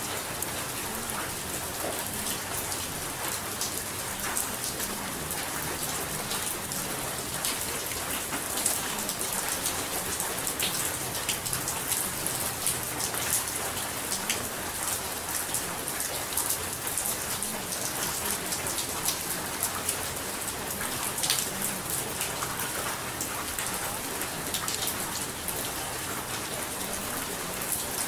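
Steady rain with a dense patter of individual drops, running evenly without change.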